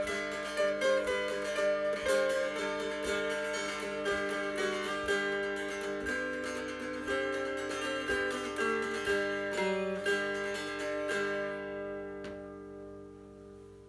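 Mountain dulcimer with a tulip poplar body and black walnut fingerboard being played, a plucked melody over ringing drone strings. The playing stops about eleven seconds in and the last chord rings out and fades.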